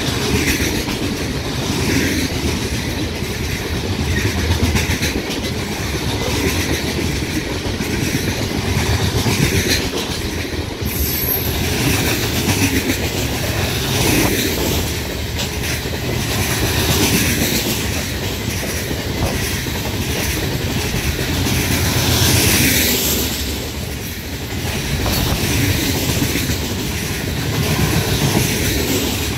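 Coal gondola cars of a long freight train rolling past: a steady rumble and rhythmic clickety-clack of steel wheels on the rails, swelling and easing every two to three seconds as the cars go by.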